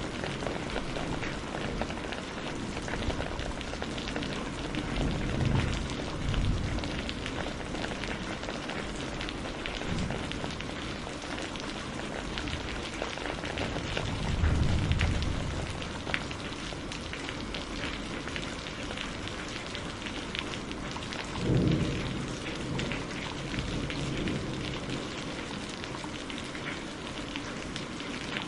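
Steady rainfall, a dense patter of drops. A few brief low rumbles swell up, about five, fourteen and twenty-one seconds in.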